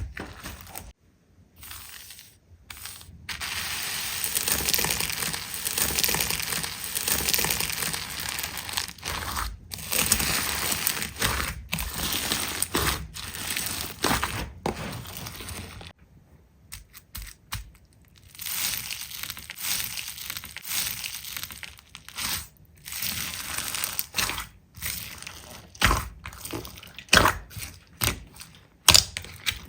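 Slime being pressed and stretched by hand, giving dense crackling for about twelve seconds. After a short lull the crackling returns, with scattered sharp pops near the end.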